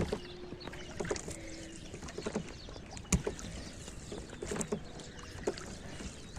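Scattered knocks and light clatter aboard a small fishing boat over a faint wash of water, with two short low hums in the first two seconds.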